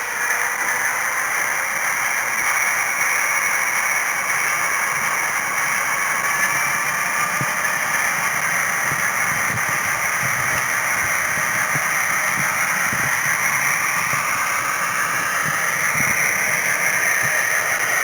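H0 model train running on its track: a steady hiss with the whine of the Brawa BR 232 diesel locomotive model's motor and sound-decoder engine noise, and light clicks from the wheels over the rails. The whine rises in pitch near the end.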